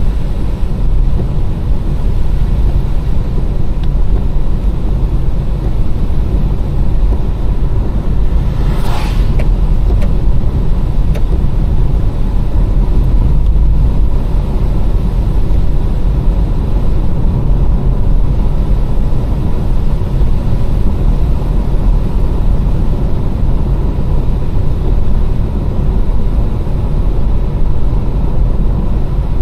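Steady low rumble of a car driving along a wet road: engine and tyre noise. There is a brief rising swish about nine seconds in.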